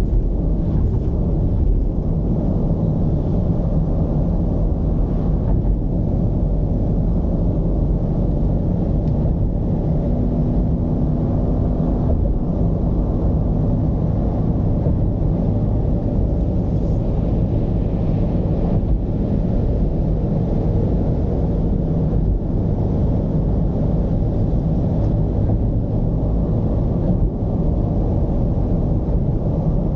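Mercedes-Benz V220 diesel van driving, its engine and road noise a steady low rumble.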